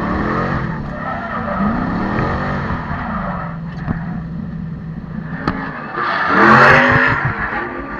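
Drift car engine revving up and falling back again and again as the car slides, with tyre screech; loudest about six to seven seconds in, as the car comes close.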